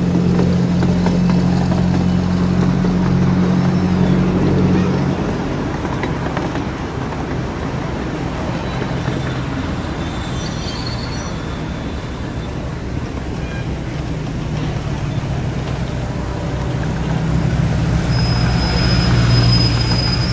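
Miniature railway train running, heard from aboard: a steady low drone for the first five seconds, then the rumble of the wheels on the rails, growing louder again near the end with a thin high squeal.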